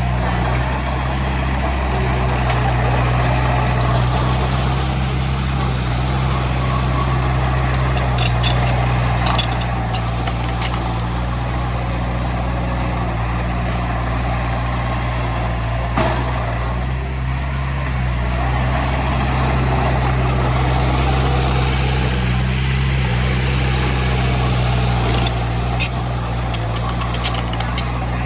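Heavy diesel engine of earthmoving machinery running steadily under load, with scattered sharp metallic clanks.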